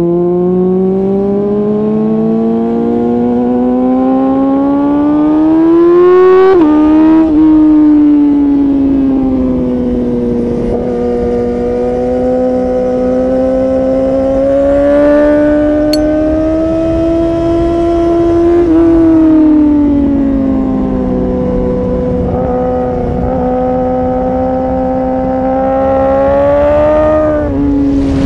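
2019 Yamaha R6's inline-four engine through an Akrapovic Evolution Line titanium exhaust, ridden hard: it climbs steadily in revs for about six seconds, drops sharply at an upshift, then holds and drifts at high revs. It eases off about two-thirds of the way through and climbs again before another sharp drop near the end.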